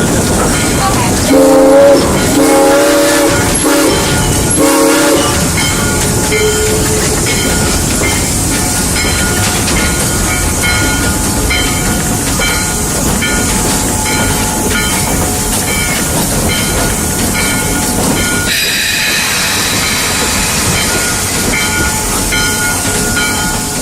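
Steam locomotive No. 15 sounding its whistle in several short blasts in the first few seconds, then running along with a steady loud clatter and rumble.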